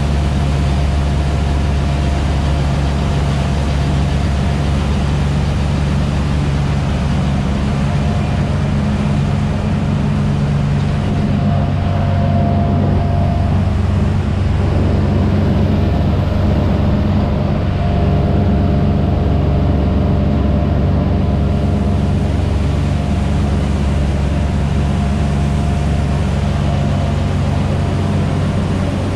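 Farm machine's engine running steadily at a constant speed, a low, even hum.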